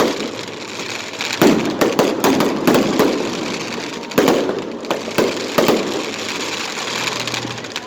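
Fireworks going off: a rapid string of about a dozen sharp bangs with crackle between them, thickest in the middle and thinning out near the end.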